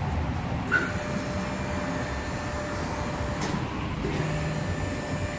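Low, steady rumble of a 1996 Impala SS's 5.7 L LT1 V8 idling on its factory exhaust, heard in a shop bay, with a sharp knock under a second in and a few lighter clicks later.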